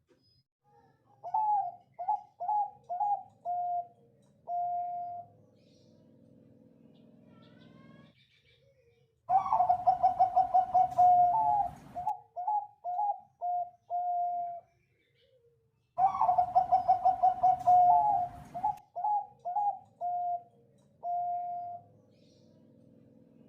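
Zebra dove (Bangkok perkutut) cooing in three song phrases. The first is a string of separate coos ending on a longer note; the other two, about nine and sixteen seconds in, open with a loud quick run of notes before the separate coos and a long final note.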